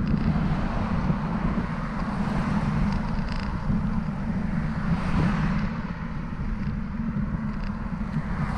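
Wind rumbling on the microphone of a camera on a moving bicycle, with road noise and traffic going by; a passing vehicle swells about halfway through and another near the end.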